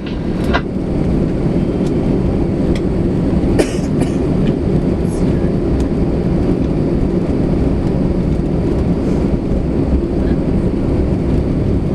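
Cabin noise of an Airbus A320 taxiing after landing: a steady rumble from the idling engines and the wheels rolling on the taxiway, with a few short clicks and rattles.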